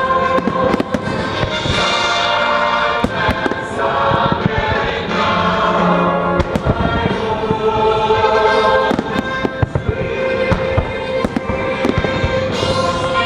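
Fireworks bursting in rapid, irregular bangs and crackles over a loud patriotic orchestral and choral soundtrack.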